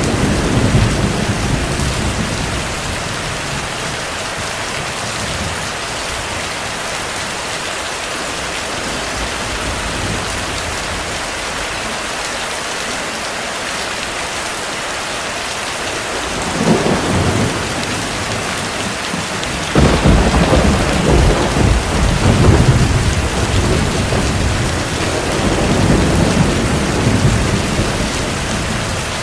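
Steady heavy rain with thunder. A rumble dies away in the first few seconds, a sharp crack comes a little past halfway, and a long loud rumble starts about two-thirds in and slowly eases.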